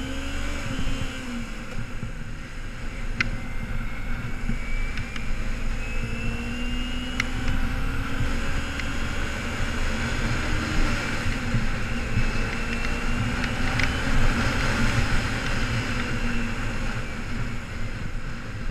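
2008 Kawasaki Ninja 250R's parallel-twin engine pulling hard through the gears, its pitch rising in long sweeps and dropping back at each upshift, several times over. Wind rushes over the helmet-mounted microphone underneath.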